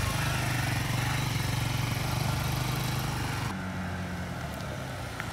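Motorcycle engine running with a steady low hum, its note changing and dropping suddenly about three and a half seconds in.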